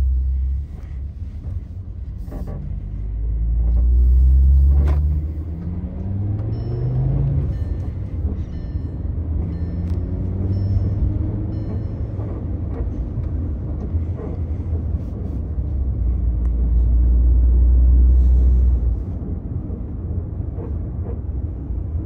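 Five-cylinder engine of a manual Volkswagen Golf wagon pulling under acceleration: its pitch climbs and drops back several times in the first half, as with upshifts. A heavy low rumble underneath swells twice.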